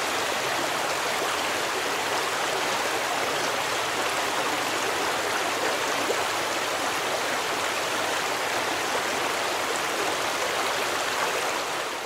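Forest stream, water rushing and splashing over rocks in a steady, even flow.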